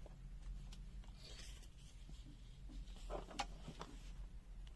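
Faint handling noises on a bench, light rubbing and a few small clicks about three seconds in, over a steady low mains hum.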